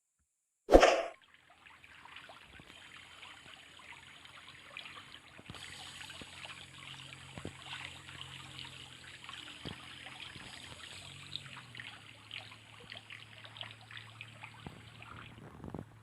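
A sharp knock about a second in, then water trickling and splashing over a faint steady hum from the small electric motor of a homemade cardboard remote-control boat. It stops abruptly near the end.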